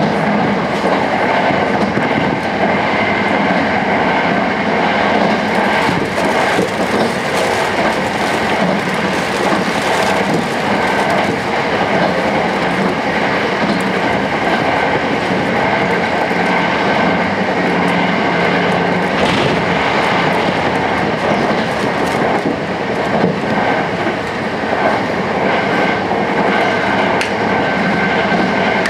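Running noise inside a passenger car of a Sanyo Electric Railway 5000 series electric train: a steady rumble of wheels on rail, with a scattering of sharp clicks as the wheels pass over rail joints.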